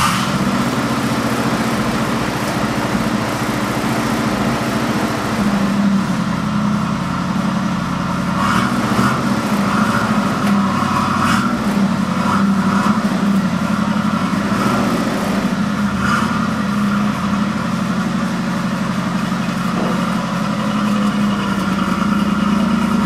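Eleanor Mustang's V8 idling steadily just after starting, its exhaust sounding inside an enclosed car trailer.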